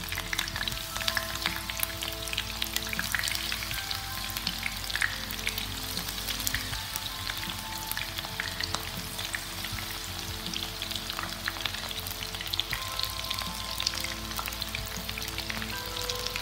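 Mushroom-and-cabbage Manchurian fritters deep-frying in hot oil in a frying pan. The oil sizzles and crackles steadily, with a constant patter of small pops.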